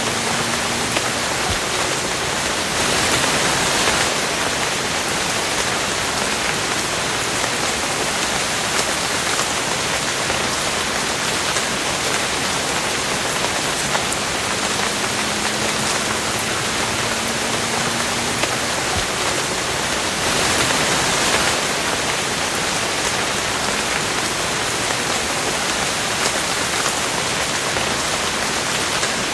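Steady rain falling, an even hiss of drops with no let-up. It swells briefly twice, a few seconds in and again about two-thirds of the way through.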